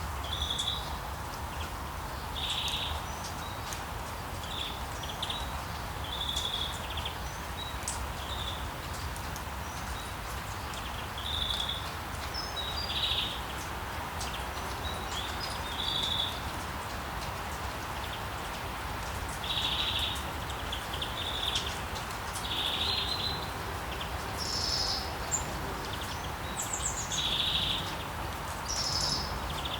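Songbirds chirping in short, repeated phrases, with a few higher notes near the end, over the steady wash of sea waves.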